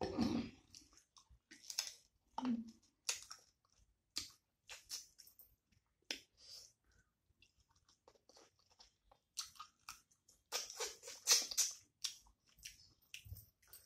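Close-up chewing and lip smacking of a person eating rice and chicken curry, in separate short bursts that get busiest about ten seconds in.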